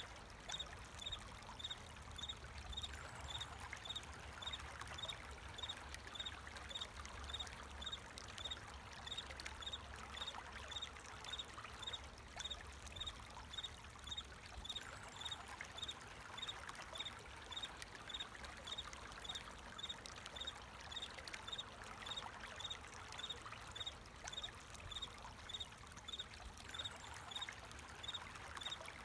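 Water flowing steadily, with crickets chirping high and in an even, repeating rhythm over it.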